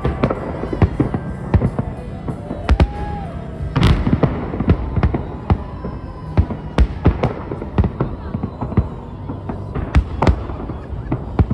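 Fireworks salute shells bursting in rapid, irregular succession, with the loudest bang about four seconds in.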